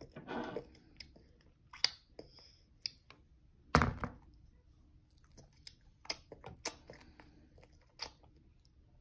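A toddler chewing a mouthful of pancit noodles, with scattered small clicks. One loud knock, the loudest sound, comes a little before the middle.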